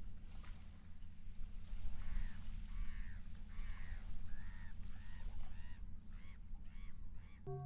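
A seagull calling: a series of repeated arched, honking cries that come faster near the end, over a steady low rumble. Just before the end a singing-bowl tone begins to ring.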